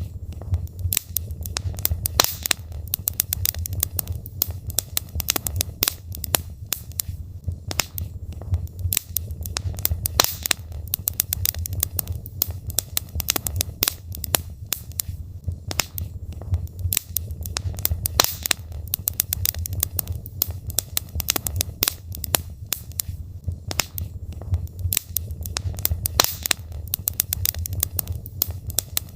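Logs burning in a fireplace: many irregular crackles and pops over a steady low rumble of the fire.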